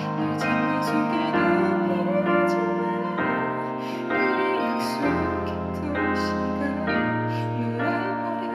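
Instrumental passage of a song played live by a band: sustained chords changing about every second over held bass notes, with no singing.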